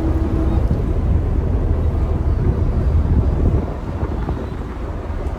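Tour boat's engine rumbling steadily under wind buffeting the microphone, a little quieter after about three and a half seconds.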